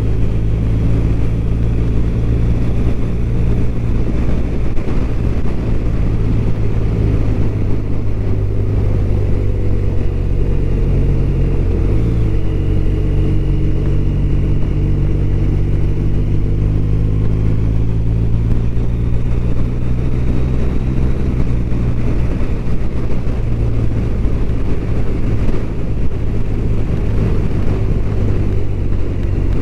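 BMW R1200RT's boxer-twin engine running steadily while the motorcycle is ridden, with a brief dip and recovery in engine note about twelve seconds in.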